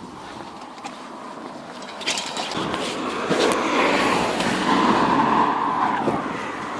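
A road vehicle passing: its noise swells about two seconds in, is loudest around four to five seconds, then eases off, with a few sharp clicks along the way.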